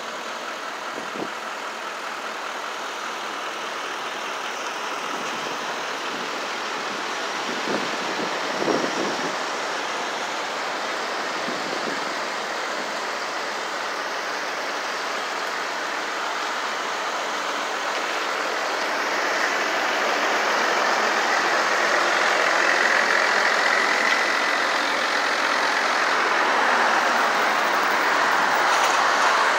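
Utility service truck engines running steadily, growing louder in the last third.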